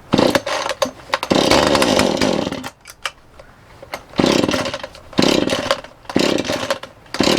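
Two-stroke chainsaw engine being started, firing up in about five short bursts and dropping away between them, as the saw struggles to start and keep running.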